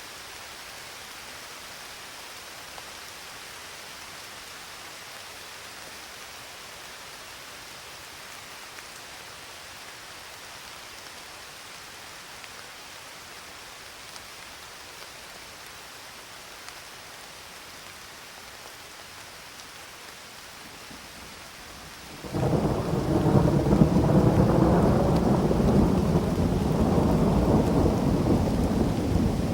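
Steady rain falling, then a loud roll of thunder that breaks in suddenly about three-quarters of the way through and rumbles on to the end, drowning out the rain.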